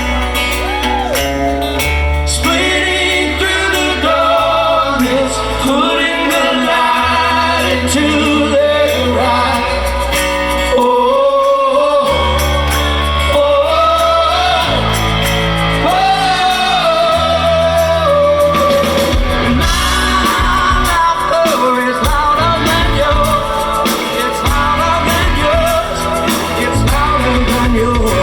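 Live rock band playing a song with sung vocals holding long, bending notes over a bass line that changes every couple of seconds. The drums and low end grow choppier about two-thirds of the way through.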